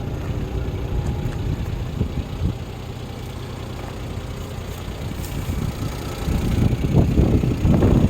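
Suzuki JA11 Jimny's 660 cc three-cylinder turbo engine running at idle, then growing louder with a few quick throttle blips near the end as it is revved up.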